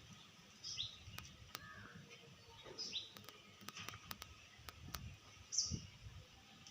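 Outdoor ambience of birds chirping in short, separate calls, with the loudest chirp near the end. A scatter of sharp clicks falls in the middle, and a low rumble runs underneath.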